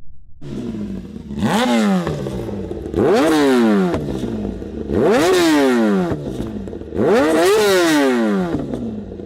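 Kawasaki ZX-10R's inline-four engine through a loud exhaust, idling and revved four times in quick blips, each climbing sharply in pitch and falling back to idle.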